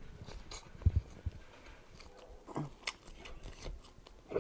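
A person chewing food close to the microphone, with wet mouth clicks and lip smacks at an uneven pace and a couple of soft low thumps about a second in.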